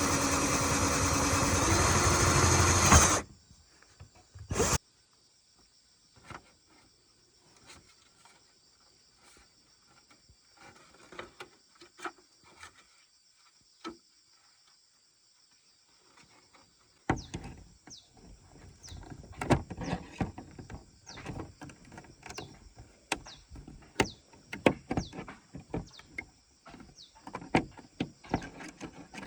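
A small motor running loudly cuts off abruptly about three seconds in. Scattered knocks and taps follow, sparse at first and much busier in the second half.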